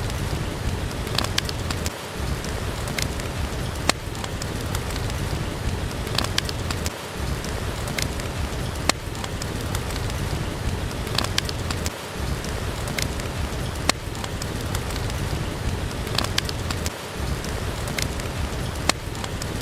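Steady rain with sharp crackles from a wood fire every second or two.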